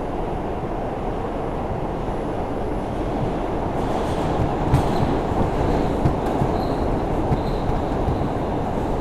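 R142 subway car running at speed, heard from inside the car: a steady rumble of wheels on rail. From about halfway through there are regular clacks over rail joints, with a faint high wheel squeal.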